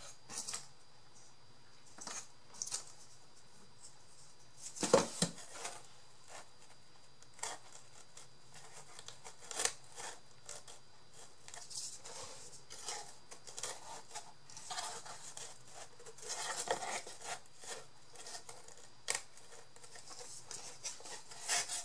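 Scissors snipping and paper rustling as paper and cardboard pieces are cut and handled, in scattered short strokes with a louder clack about five seconds in.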